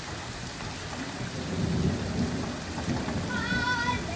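Steady rain falling, with a low rumble of thunder rising from about a second in. Near the end a child's high-pitched shout rings out briefly.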